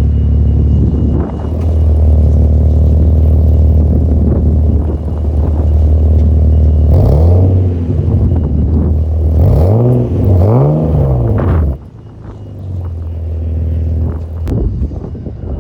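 Nissan Skyline R34 sedan's RB20DE straight-six idling through a new titanium-tipped cat-back exhaust, with three quick throttle revs rising and falling partway through. At about twelve seconds the engine sound drops sharply to a much quieter level.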